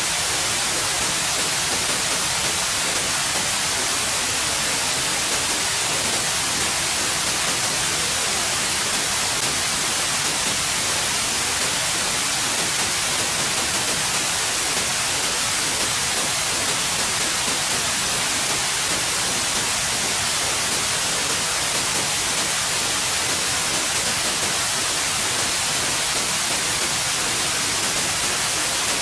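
Steady white noise: an even, unchanging hiss, brightest in the treble, with no breaks or variation.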